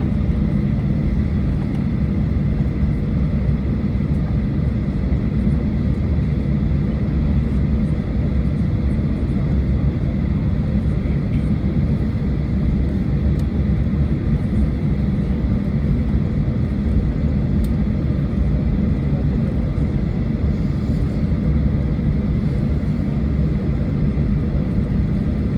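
Boeing 737-800's CFM56 jet engines running with a steady low rumble and a faint high tone, unchanging throughout.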